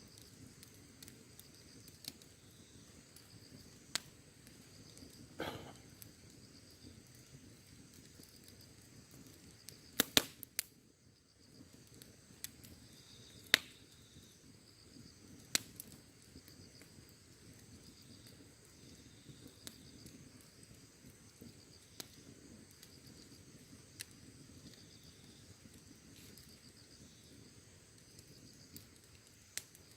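Wood campfire crackling, with scattered sharp pops of varying size, the loudest a close pair about ten seconds in and another a few seconds later. Crickets chirp steadily behind it.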